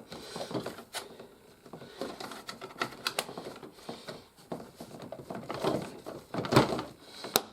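Cheap hard plastic toy playset parts being handled and pressed together at their tabs: irregular clicks, taps and rattles of plastic, with a louder snap about six and a half seconds in.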